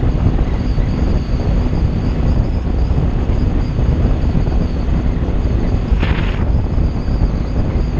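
Wind rushing over the microphone of a Kawasaki Ninja 300 riding at speed, with the engine running underneath. A short hiss about six seconds in.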